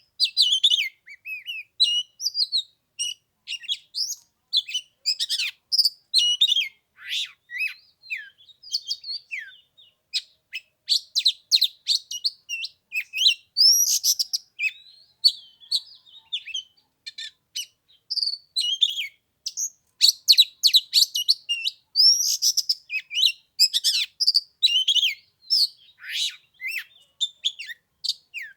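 Oriental magpie-robin singing: a continuous, varied song of clear whistles, quick trills and sharp chirps, with short pauses between phrases.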